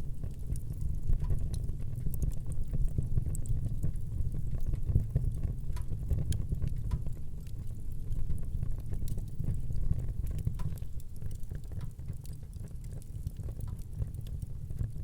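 Wood fire burning in a fireplace: a steady low rush from the flames with small crackles and pops scattered irregularly through it.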